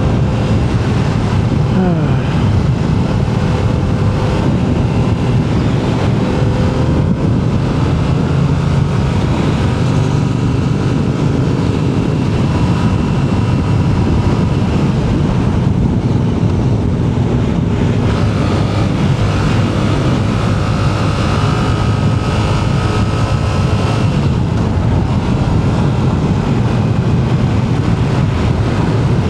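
Motorcycle engine running under way, with wind rushing over the microphone; the engine pitch falls and rises a little as the revs change.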